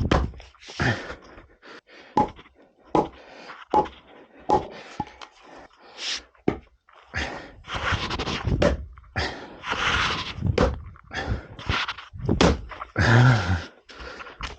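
Splitting axe striking a large log of firewood again and again, a sharp thunk about once a second, worked around the edges to split it. Heavy breathing from the axeman comes between the blows.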